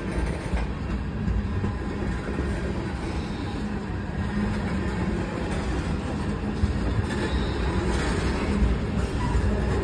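Freight cars of a CSX westbound local freight train rolling past at a grade crossing, a steady rumble of wheels on the rails.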